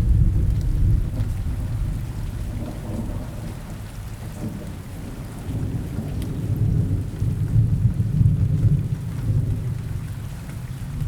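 Steady rain falling, with thunder rumbling low beneath it, loudest right at the start and rolling in again about halfway through.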